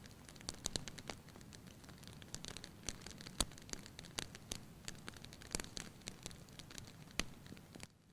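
Wood fire crackling in a fireplace: irregular sharp pops and snaps over a low steady hiss, dropping away abruptly just before the end.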